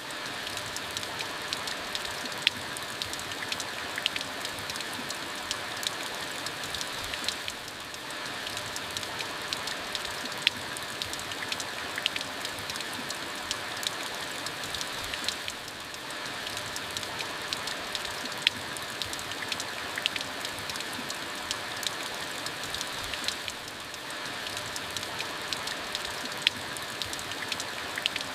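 Steady rain falling, with sharp single drops ticking on a hard surface through the hiss. The rain eases briefly about every eight seconds.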